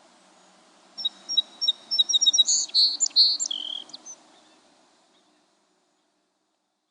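Song sparrow singing one song, starting about a second in and lasting about three seconds: a run of short, quickly repeated high notes that speeds into a jumbled, faster series of notes at the end.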